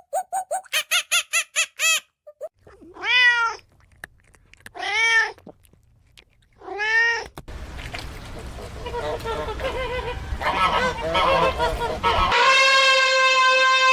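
A domestic cat meowing three times, each meow a single arching call, about two seconds apart. Before it there is a quick series of short yips, and after it a noisy jumble of animal calls, then a long steady pitched call near the end.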